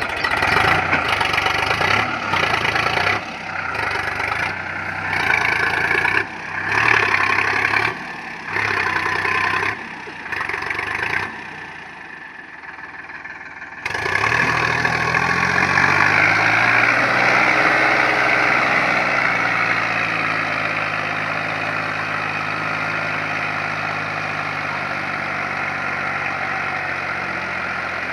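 Sonalika 745 DI tractor's diesel engine running while pulling a loaded gravel trolley, with sudden cuts and jumps in level through the first half. About halfway in it settles into a steady run, its note rising and falling briefly before holding even.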